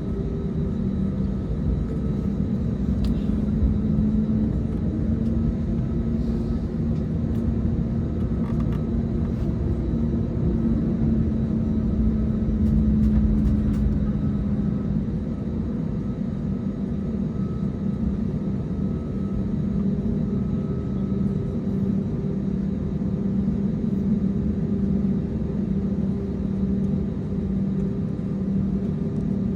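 Cabin noise inside an Airbus A320neo: its CFM LEAP-1A engines running steadily under a continuous low rumble. A low hum wavers slightly in pitch through the first half, then holds steady.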